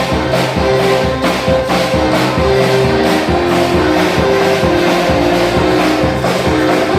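Church band music with held chords over a steady beat of about two strokes a second.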